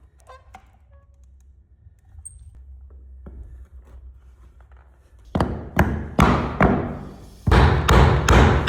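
Hammer blows on wooden parquet, a few faint clicks at first, then from just past the middle sharp, loud strikes in quick runs of three or four, about two to three a second.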